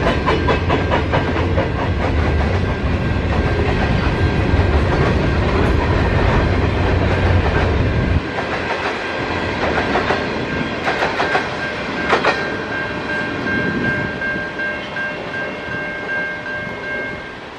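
Freight train of grain hopper wagons rolling past, its wheels clicking over the rail joints over a heavy low rumble. The rumble drops off sharply about eight seconds in as the last wagon passes. Clicks and a thin steady high tone from the receding train then fade.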